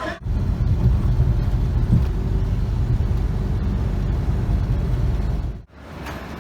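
Steady low rumble of a vehicle running, with a few faint ticks, cut off abruptly near the end.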